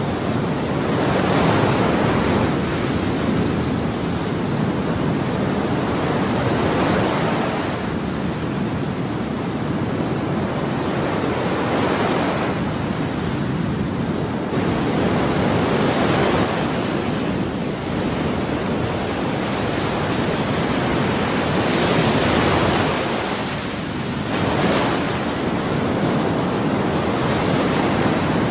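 Ocean waves: a continuous wash of surf, with a wave swelling and breaking more loudly every few seconds.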